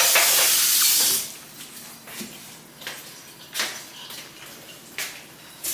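Food sizzling in a frying pan, a bright hiss that cuts off about a second in. After that the room is much quieter, with a few light knocks and clatters.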